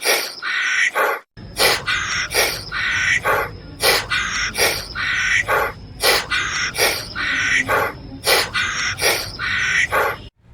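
A series of short, harsh, caw-like animal calls repeating about one to two times a second, with a brief gap about a second in.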